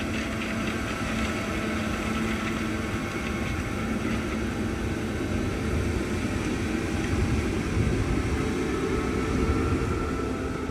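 Heavy harvest machinery running steadily, a low engine rumble with a faint steady hum.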